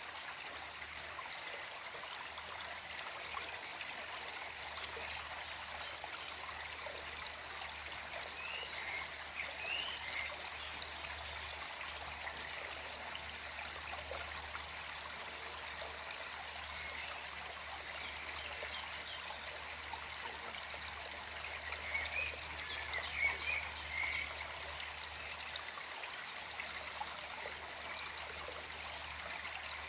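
Small forest stream flowing and trickling steadily over stones. Short high bird chirps come through now and then, in quick little runs of three or four notes.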